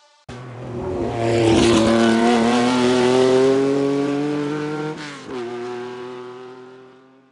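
Car engine accelerating, its pitch climbing steadily. About five seconds in there is a brief break and drop in pitch, like a gear change, before it climbs again and fades away.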